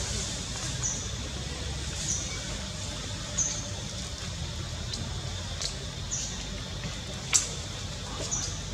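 A bird's short, high chirp repeating every second or two over a steady low rumble, with a sharp click about seven seconds in.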